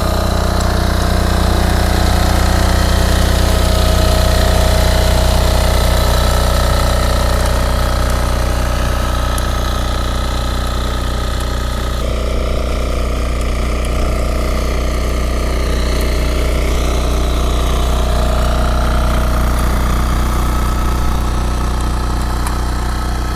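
Yanmar A-10V walk-behind tiller's engine running steadily under load as its one-metre rotary tines till the soil in third gear.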